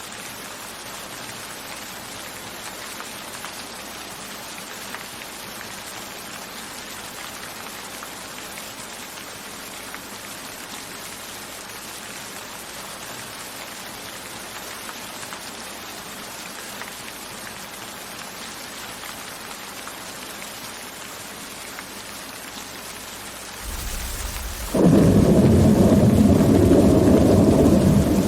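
Steady rain falling, an even hiss. Near the end, thunder starts as a low rumble and about a second later breaks into loud, deep rolling thunder that drowns out the rain.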